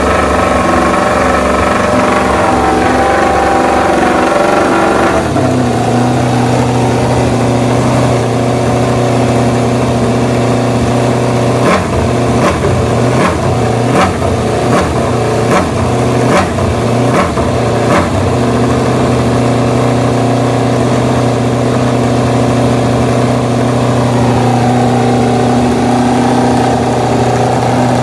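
Aprilia MotoGP motorcycle's V4 engine running through its racing exhaust at a steady held idle. About twelve seconds in comes a run of seven or eight quick sharp throttle blips, roughly one every second, before it settles back to steady running. The engine note shifts in pitch a few seconds in and again near the end.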